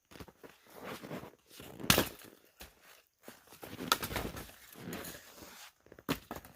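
Split firewood being handled and stacked: irregular rustling and scraping with sharp knocks of logs landing, the loudest about two and four seconds in.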